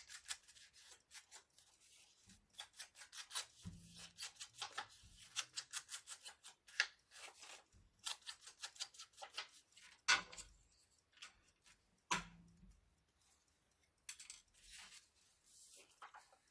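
Paper edges being inked: an ink pad rubbed along the paper in many quick, short scraping strokes, with a few louder knocks and paper handling about midway.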